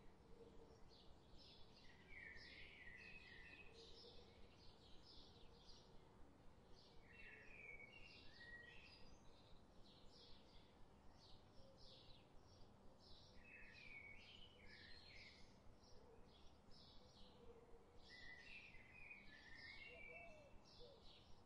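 Faint birdsong: a short warbling phrase about every five to six seconds over a steady run of high chirps, about three a second.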